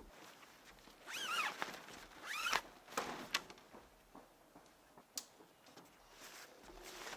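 A bird calling twice, about a second apart: two short calls that rise and fall in pitch. A few sharp clicks and light rustling follow.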